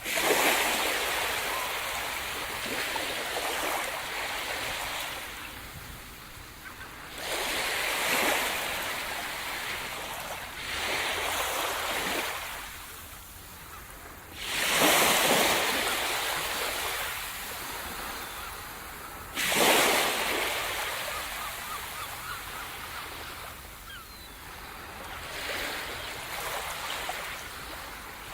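Sea surf: waves breaking on the shore one after another, about six of them, each a sudden crash of hiss that washes out over several seconds. The two strongest breaks come a little past the middle.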